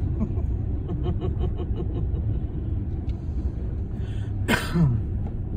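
Steady low rumble of a freight train moving slowly past the crossing, heard from inside a waiting car. About four and a half seconds in, a person coughs once, loudly.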